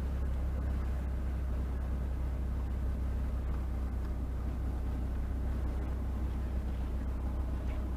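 Steady low rumble of a car on the move: engine and road noise, even throughout.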